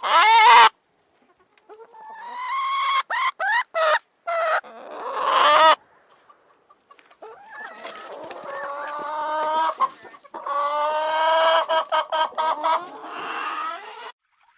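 Chickens calling: a run of short squawks and rising calls in the first half, then two long drawn-out, crow-like calls of two to three seconds each.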